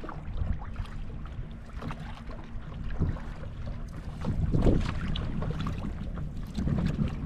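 Wind buffeting the microphone over water splashing and lapping from paddle-board strokes, with a louder gust about four and a half seconds in.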